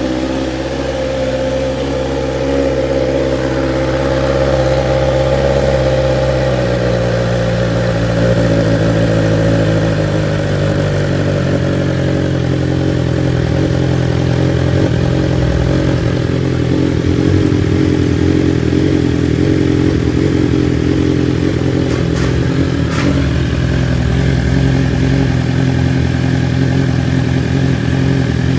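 BMW S1000XR's inline-four engine idling just after a cold start, through an aftermarket slip-on exhaust with the stock catalytic converter still in place, so it is not very loud. The idle drops a step about seven seconds in and then runs steadily.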